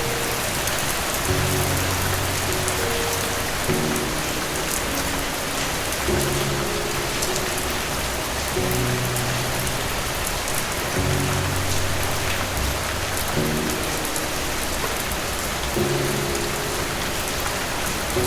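Steady rain with soft, low music chords under it, a new chord coming in about every two and a half seconds.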